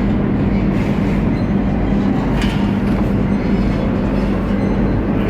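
Moscow metro train running: a steady loud rumble with a low hum, and a brief higher squeak about halfway through.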